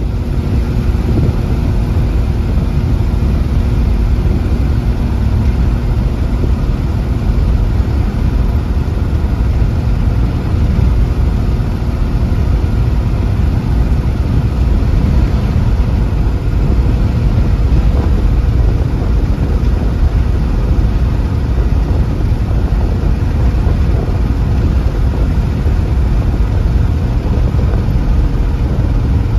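Steady low rumble of a car on the move: engine and road noise that holds an even level throughout.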